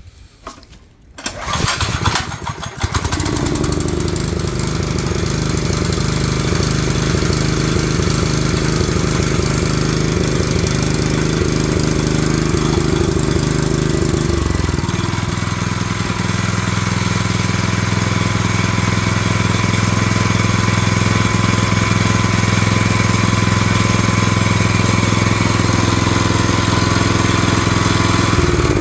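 Honda HS555 snowblower engine starting about a second and a half in, catching within a second or so and then running steadily. About halfway through, its running note changes.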